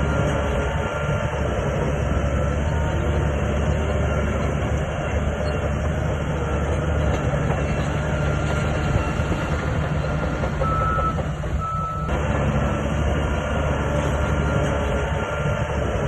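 Shantui bulldozer's diesel engine running steadily under load, with the clatter of its working machinery. A couple of short, high reversing-style beeps sound about two-thirds of the way through.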